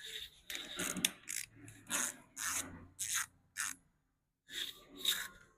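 Hand ratchet wrench being worked back and forth, its pawl clicking in a rasping stroke about twice a second, with a short pause about four seconds in.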